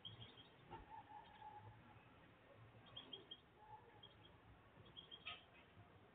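Near silence with faint, short bird chirps in quick little groups near the start and about three and five seconds in, and a faint click about five seconds in.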